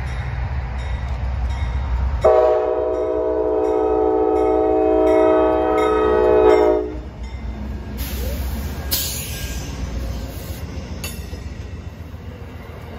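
Amtrak GE P42 diesel locomotive passing close by, sounding one long horn blast that starts sharply about two seconds in and cuts off about seven seconds in, over the low rumble of engine and wheels. The passenger cars then roll past, their wheels rumbling on the rails as the sound slowly fades.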